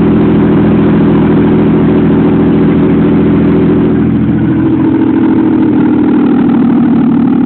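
GM 3800 supercharged V6 running steadily, its tone shifting a little about four seconds in.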